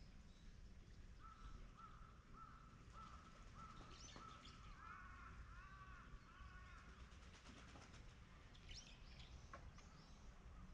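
Faint bird calls over a low steady rumble: a run of short, evenly spaced notes, then a few arched, caw-like calls, and later a couple of high chirps.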